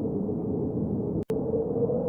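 Wind blowing steadily, a low rumbling rush with a constant hollow drone running through it. It cuts out to silence for an instant about a second in.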